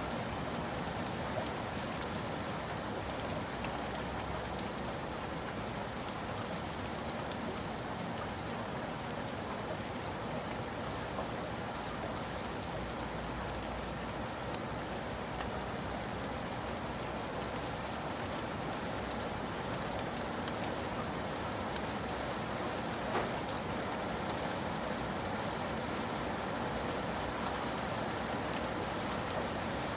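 Steady rain, with many raindrops falling on a surface in an even patter, and now and then a single drop striking a little louder.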